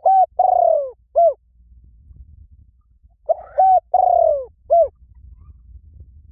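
A bird's call repeated twice, about three seconds apart. Each phrase is four short, mellow notes, and the third note is long and falling in pitch. It is loud throughout, a recorded call played to lure birds.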